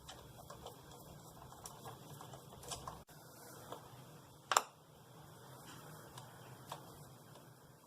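Scattered light clicks of a ratchet and metal hand tools being worked on the throttle body's idle control valve screws, with one sharper click about four and a half seconds in.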